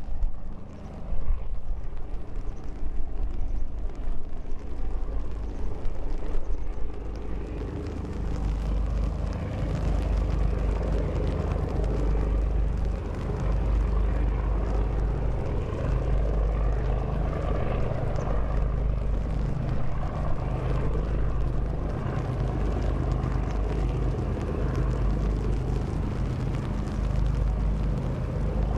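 Diesel engine of a sand-carrying river boat running steadily with a deep, even drone, with wind gusting on the microphone in the first few seconds.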